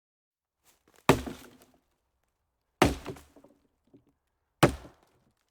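Three sharp knocks, each ringing briefly as it dies away, spaced just under two seconds apart.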